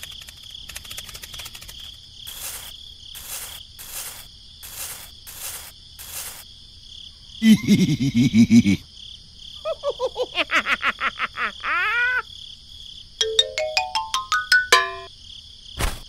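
Steady cricket-like chirping ambience under a string of cartoon sound effects: a loud buzzing rattle about halfway, then a run of quick falling-pitch tones, then a rising stepped run of notes near the end, closed by a sharp click.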